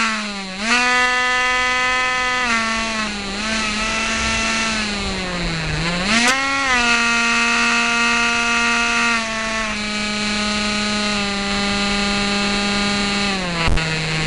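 Dynam Hawk Sky RC plane's electric motor and propeller whining, heard on board over rushing wind; the pitch rises and falls several times and drops to a lower steady note near the end.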